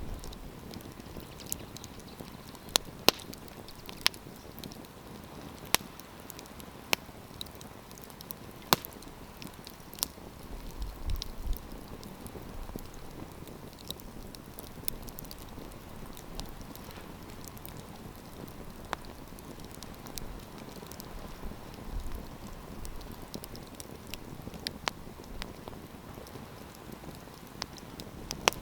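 Wood campfire crackling: a steady hiss of burning with irregular sharp pops and snaps, several of them loud in the first ten seconds. A few brief low rumbles come and go around the middle.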